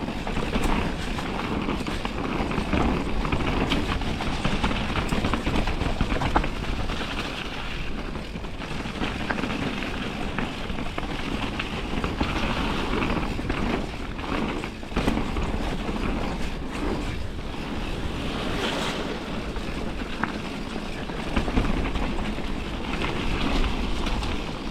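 A Radon Swoop 9.0 mountain bike riding downhill over a rain-soaked trail: a continuous rush of tyres through mud and water, with the bike rattling and knocking over bumps and wind buffeting the microphone.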